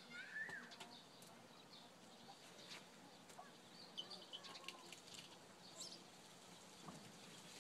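Near silence with faint, scattered bird chirps, including a short call that rises and falls about half a second in.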